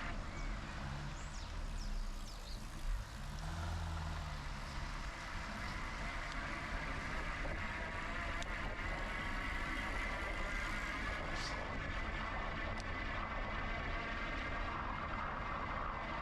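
Steady riding noise from a GoCycle GX electric bike in motion: wind and tyre rush with a faint steady whine. A low hum swells and fades about three to four seconds in.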